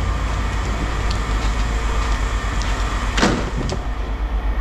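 Steady low engine rumble, with scattered light knocks of scrap metal being handled and one loud metal clank about three seconds in.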